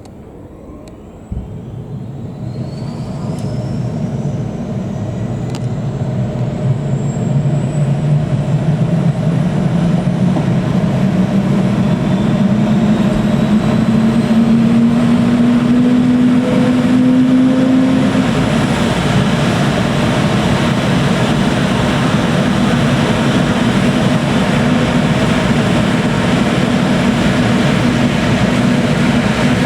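Helicopter's turbine engine and rotor spinning up. A high whine climbs in pitch, and the lower rotor drone rises steadily in pitch and loudness for the first half before settling into a steady, loud run.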